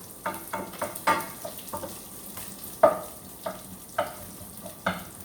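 Garlic and onion sizzling in hot oil while being stirred, with a spatula knocking and scraping against the pan in irregular strokes, one much louder knock about three seconds in.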